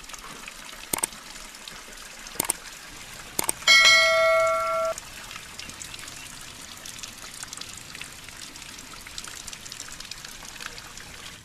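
Forest stream water running and trickling steadily, with a few sharp clicks. About four seconds in, a bell-like ringing tone sounds for about a second and cuts off suddenly.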